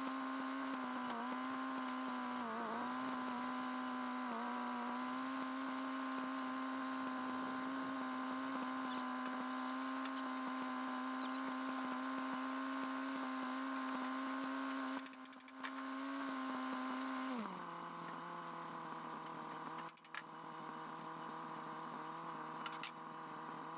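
Tractor engine running at a steady speed with a couple of brief dips, then throttled down to a lower idle about two-thirds of the way through.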